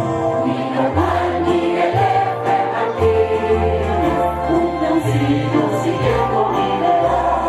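Music with a choir singing held notes over a bass line that changes about once a second.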